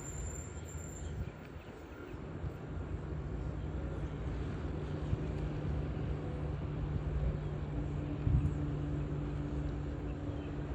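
Steady low engine hum and rumble over outdoor background noise.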